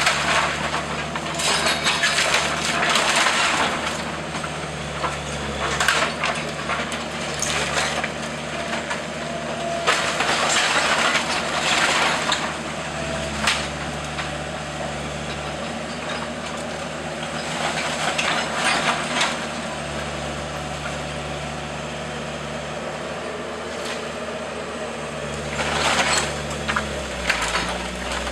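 A heavy demolition machine's engine runs steadily while the wooden structure of an old house is crushed, with repeated bursts of cracking and splintering timber.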